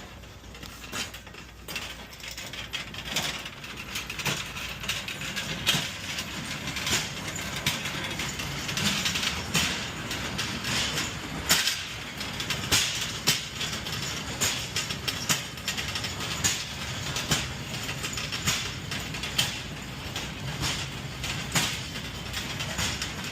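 Wheeled delivery carts being pushed along, rattling and clanking with sharp knocks about once or twice a second, over a steady low hum.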